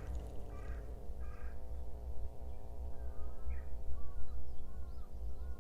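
A crow cawing twice, followed by a run of short, falling calls, over a steady low rumble.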